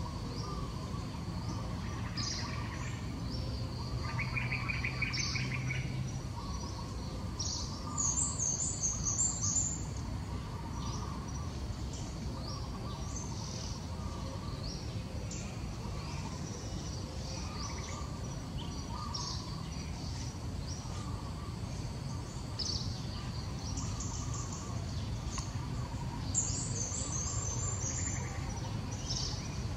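Birds chirping repeatedly over a steady background hum, with louder runs of high chirps about eight seconds in and again near the end.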